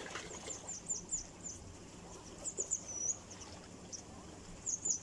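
A small bird chirping: short, high, down-slurred chirps in quick runs of four or five, three times over.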